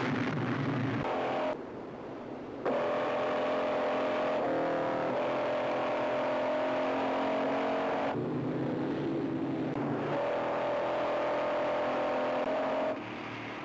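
Engines of 1970s Pontiac sedans running hard at high speed, a loud steady engine note that steps to a new pitch a few times. It drops away briefly about two seconds in and again near the end.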